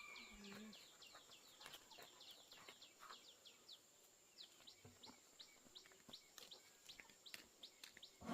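A small bird calling in a quick run of short, falling chirps, about four a second, faint, over a steady high-pitched tone.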